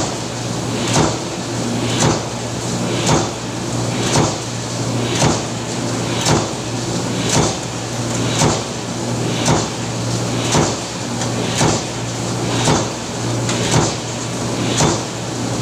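Power press stamping in a steady rhythm, about one stroke a second, each stroke a sharp impact, over the continuous low hum of the running machine.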